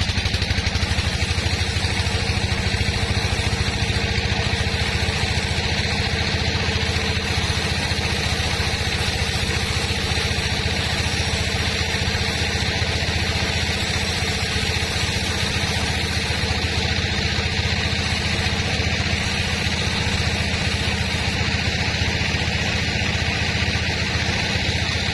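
Sawmill machinery running steadily: an even, engine-like drone with no pauses or changes in speed.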